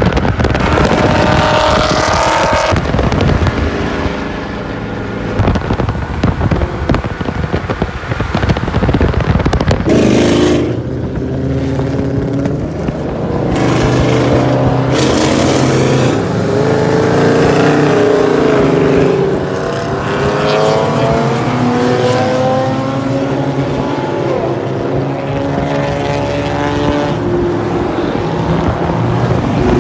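Car's V6 engine running while under way, its pitch climbing and dropping as it accelerates and changes gear, with wind and road noise that is heaviest in the first ten seconds or so.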